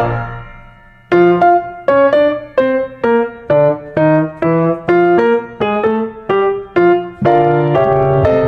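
Background music: a piano playing a slow melody of separate notes, about two a second. A chord fades out in the first second before the notes start again.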